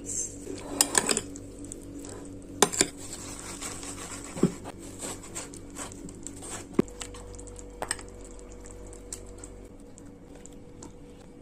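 Spoon stirring food in a dish, clinking against the dish: a few sharp clinks, a cluster about a second in, a loud pair near three seconds, then single clinks further apart, with soft scraping between.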